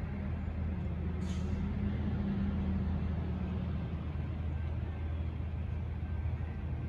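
Steady low drone of a distant Amtrak diesel locomotive approaching along the track, with a brief hiss about a second in.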